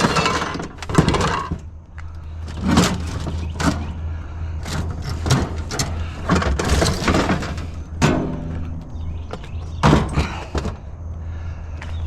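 Scrap items being handled and loaded: a run of knocks, thumps and clatters, with a steady low hum underneath.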